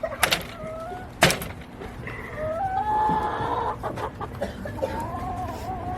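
Domestic hens clucking and calling in drawn-out, wavering notes. Two sharp knocks come in the first second and a half.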